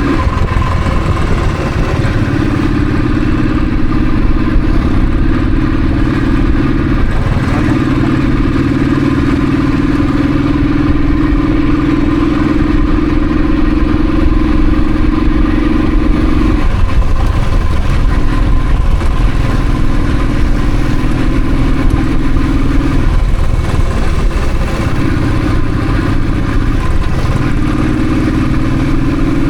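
Royal Enfield Thunderbird's single-cylinder engine running steadily under way, its pitch shifting several times.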